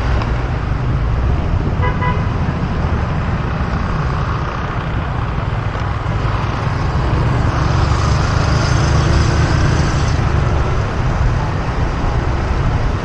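Riding a motorbike through city traffic: a steady low rumble of engine, road and wind noise. A short horn toot sounds about two seconds in. A thin, high-pitched sound lasts for about two seconds past the middle.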